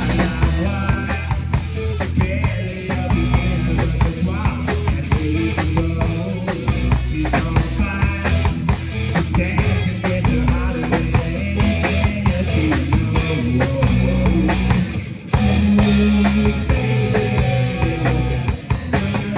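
Live rock band playing: drum kit, electric guitar and bass, with a brief stop about fifteen seconds in before the band comes back in.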